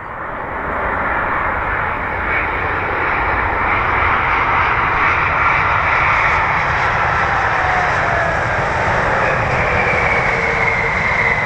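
Boeing 787-8 airliner's Rolls-Royce Trent 1000 turbofans on landing approach. The roar grows louder over the first couple of seconds, then holds, with engine whines that slowly fall in pitch as the aircraft comes past.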